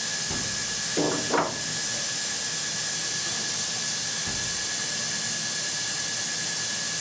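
DATRON M8Cube CNC milling machine with a 3.0 kW high-frequency spindle, high-speed milling aluminium: a steady hiss with a steady high whine, and a brief louder sound about a second in.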